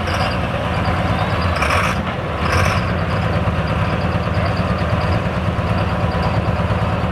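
Engine idling steadily, with two short hissing bursts about two and two and a half seconds in.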